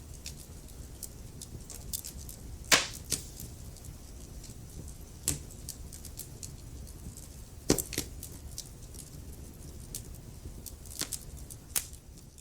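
Wood fire crackling in a fireplace: a steady low rumble of burning logs with frequent small crackles and four loud, sharp pops spaced a few seconds apart.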